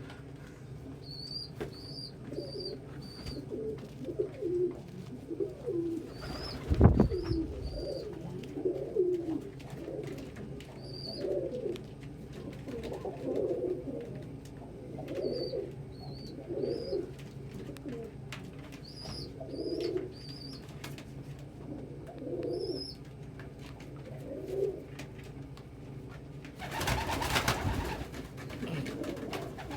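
Domestic pigeons cooing over and over, with short high chirps in among the coos. Two brief louder bursts of noise come about a quarter of the way through and again near the end.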